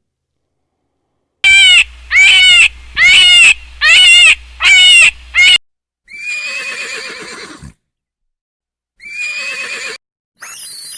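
A farm animal calling: a quick run of six short, loud calls, then two longer, quieter wavering calls.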